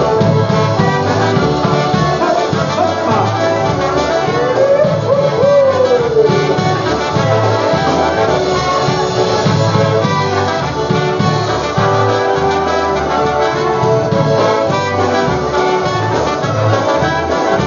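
Live polka band playing an instrumental passage, brass carrying the tune over a steady beat. About five seconds in, one note slides up and back down.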